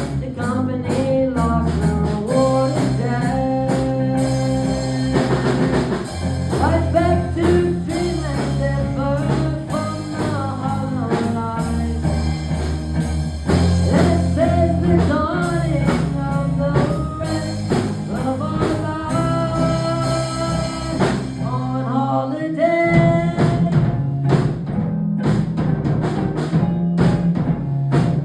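Band playing a blues-rock song with drum kit, bass, guitar and singing. About three quarters of the way through, the bass drops out for a moment and the drums come forward.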